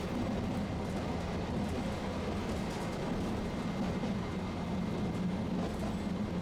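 Tosaden streetcar running steadily, an even mechanical drone with a faint steady high tone above it.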